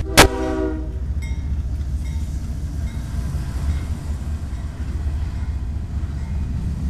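Freight train rolling past with a steady low rumble. Just after the start comes one sharp metallic bang, the loudest moment, with a brief ring.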